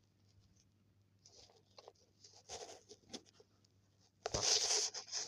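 Scratching and rustling noises, in short scattered strokes, with a louder burst of rustling about four seconds in.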